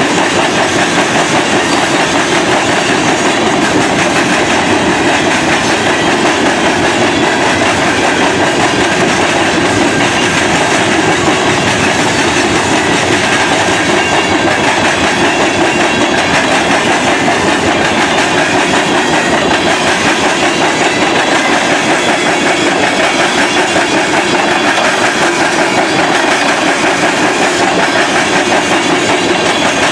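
Train cars rolling past close by: a steady, loud clatter of wheels on the rails with no let-up.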